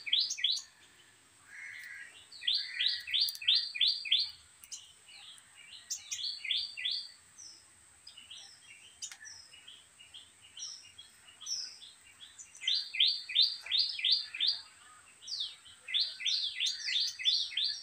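A bird chirping in quick runs of short rising notes, about five a second, four runs with gaps between them, and softer scattered chirps in the gaps.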